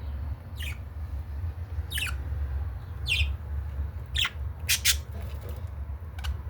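Budgerigars chirping: short, sharp calls that drop in pitch, about one a second, with two in quick succession past the middle. A steady low rumble runs underneath.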